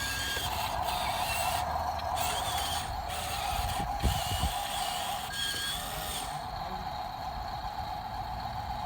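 A steady mechanical whir, with two short thumps about four seconds in.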